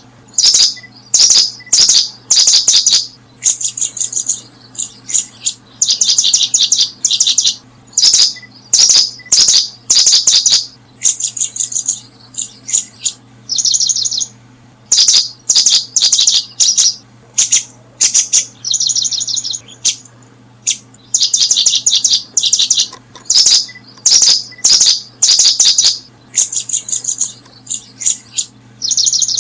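Small bird chirping loudly in rapid clusters of short notes, repeated again and again with brief pauses, over a steady low hum.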